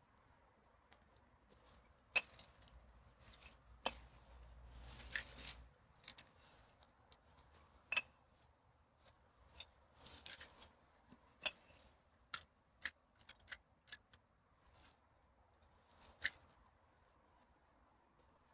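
Litter being handled and put into a garbage bag: scattered faint clicks, crinkles and light clinks, with a longer rustle about five seconds in.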